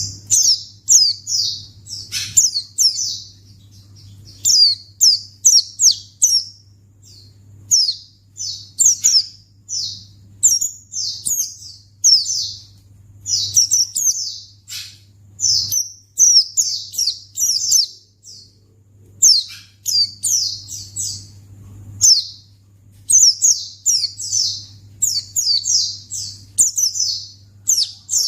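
White-eye (pleci) song: fast runs of high, sweeping chirps in bursts a second or two long, broken by short pauses, over a steady low hum.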